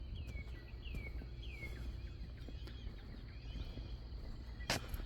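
Birds calling outdoors: a run of short, downward-slurred chirps about every half second, then looser chirps. Under them run a steady high insect drone and a low rumble. A single sharp click comes near the end and is the loudest sound.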